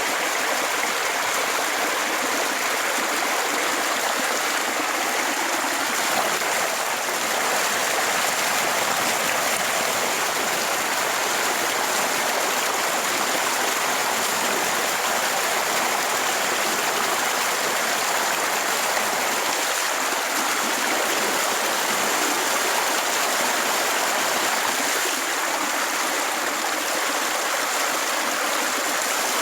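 Steady rushing water, like a stream, running without a break.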